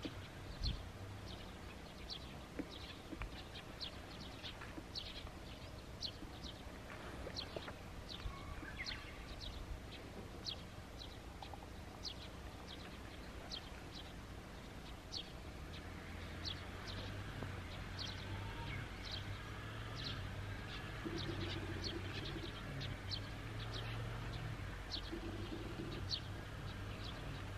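A small bird calling over and over with short, high, falling chirps, about one or two a second, against a faint low hum that gets louder about halfway through.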